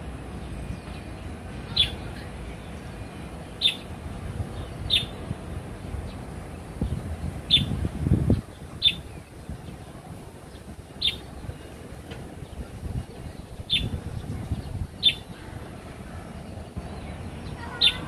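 A wild bird calling with short, sharp chirps, about nine of them spaced a second or two apart, over a low rumble that swells briefly about halfway through.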